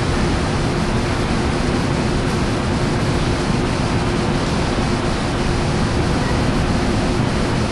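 Amtrak diesel passenger locomotive idling while the train stands in the station: a loud, steady rumble with a constant hum.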